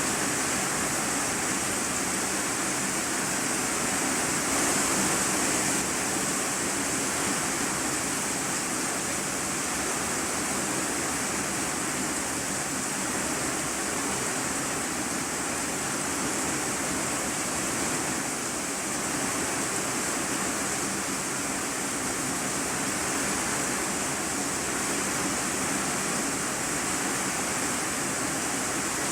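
Heavy rain falling steadily on an iron sheet roof, heard from the room beneath: an even, unbroken hiss with a bright high edge.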